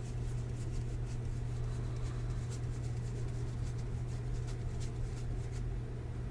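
Light rustling and soft clicks of trading cards being handled, over a steady low hum.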